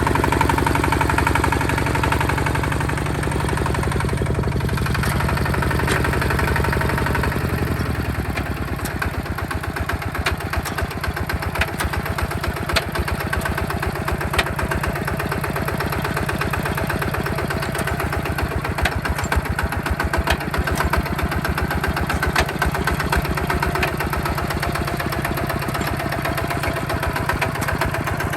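Diesel engine of a Hinota HG Gold 155 DI tractor running steadily with even firing pulses; its note shifts about eight seconds in, then runs on steadily.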